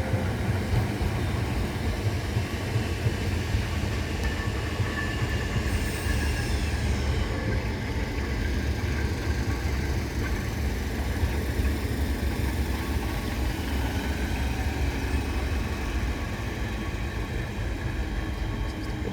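A Class 465 Networker electric multiple unit, two units coupled, running past: a steady low rumble of wheels on rail with faint steady tones above it.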